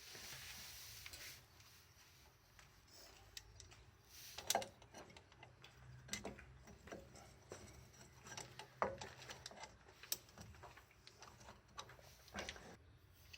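Scattered light metallic clicks and taps of tools and parts being handled on a car's rear drum brake assembly, with a few louder knocks among them.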